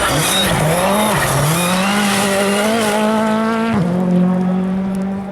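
Rally car engine under hard acceleration. The note dips twice, climbs steadily for a couple of seconds, drops sharply about three and a half seconds in as the throttle is lifted or a gear is changed, then holds a steady lower note.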